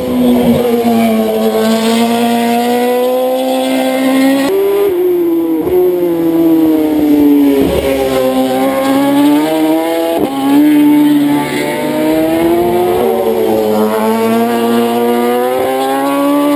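Racing motorcycle engines at high revs passing at speed. The pitch rises and falls and breaks sharply a few times, at gear changes.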